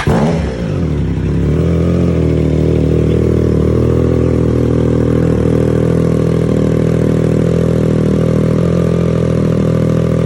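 A cold engine catches just as the starter cranking ends, flares up briefly, then settles into a steady idle after about a second and a half.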